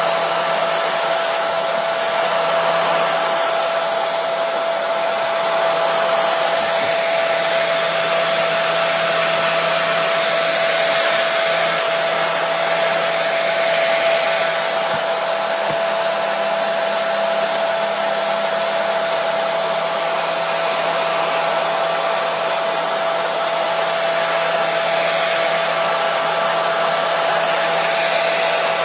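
Hair dryer running continuously, a steady rushing airflow hiss with a constant whine from its motor and fan.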